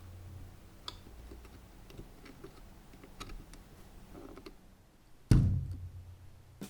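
Scattered faint clicks and taps over a low hum, then one sudden loud thump about five seconds in that dies away over about a second.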